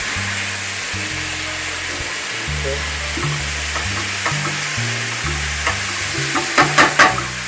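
Chicken and shrimp sizzling steadily in a hot frying pan, over background music with a low bass line. A few sharp knocks near the end, a utensil striking the pan while stirring, are the loudest sounds.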